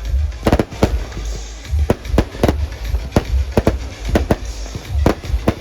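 Fireworks going off in a rapid, irregular string of sharp bangs and cracks, roughly three or four a second, over a low steady rumble.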